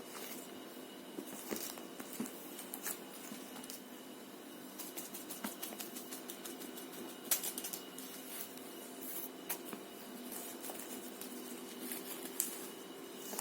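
Young kittens moving about: scattered soft pattering, scratching and rustling, with small clicks, over a steady faint hum.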